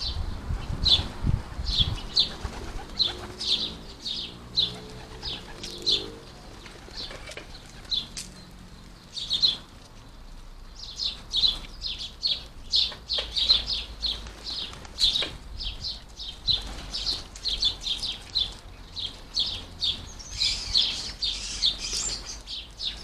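House sparrows chirping at a garden feeder: short repeated cheeps, several a second, thinning out for a few seconds mid-way and then getting busier again toward the end.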